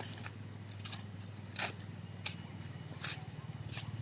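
Footsteps crunching on dry ground, one about every three quarters of a second, over a steady low engine-like hum and a faint high buzz.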